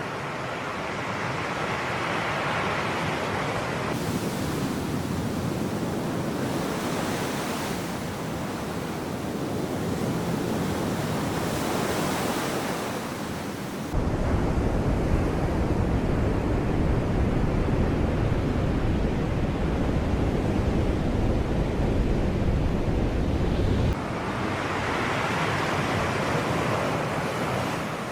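Sea waves washing onto the shore, a steady rush of surf with wind. The sound changes abruptly a few times, and for about ten seconds in the middle a deep rumble of wind buffeting the microphone sits under the surf.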